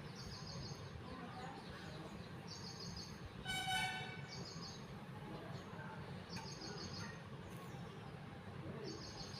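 Faint background sounds: a bird chirping in short high bursts about every two seconds, and a brief horn toot about three and a half seconds in, over a low steady hum.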